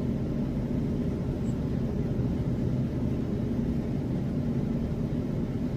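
Steady low rumble in the cabin of an Airbus A350 taxiing after landing.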